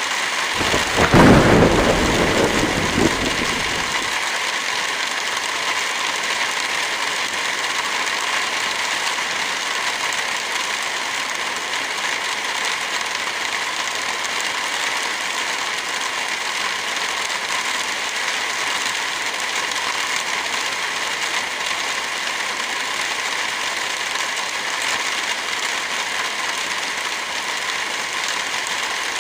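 Heavy rain falling steadily, with a low rumble of thunder about a second in that fades out within a few seconds.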